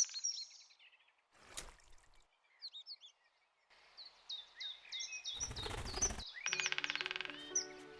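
Small songbirds chirping repeatedly in short, high, falling calls. A brief noisy burst comes about a second and a half in and a louder one around five and a half seconds, then background music with held notes comes in near the end.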